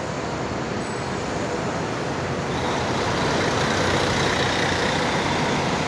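Mercedes-Benz OF-1721 BlueTec 5 bus's diesel engine running with road noise. It grows a little louder about halfway through, with a faint high whine coming in.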